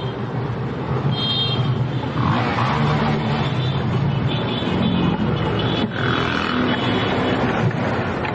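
Road traffic: vehicle engines running, with a steady low engine note that rises and falls slightly.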